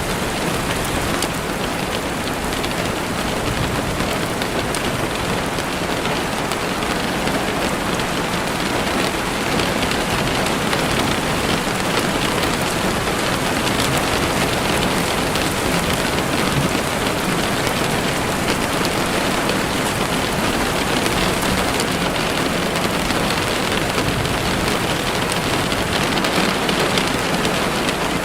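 Steady rain falling, a constant even hiss of many drops with faint scattered ticks.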